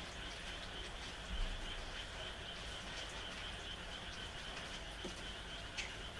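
Night frog chorus, a steady high trilling, over light rain with scattered drips. A single low thump about a second and a half in.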